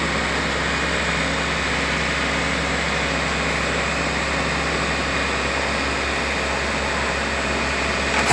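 Heavy machinery engine running steadily at an even speed, a constant low hum under a steady hiss.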